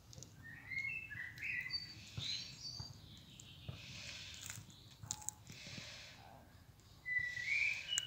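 Songbirds singing outdoors: short whistled chirps and phrases, one burst about a second in and another louder one near the end.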